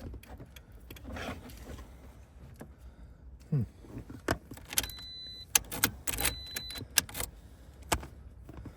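Scattered sharp metal clicks and taps, a couple of them ringing briefly, from keys and tools working at a Toyota RAV4's ignition lock cylinder and column trim while trying to get at the cylinder's retainer.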